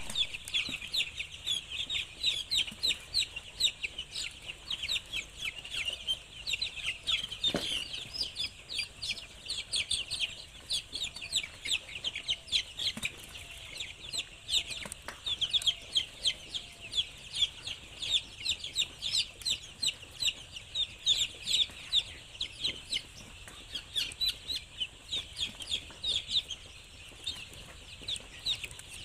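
A flock of chickens in a poultry house calling without a break: a dense chorus of short, high-pitched peeps and cheeps, with occasional lower clucks.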